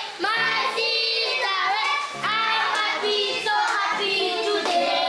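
Children singing a song together, their voices rising and falling, with a low note returning about every two seconds.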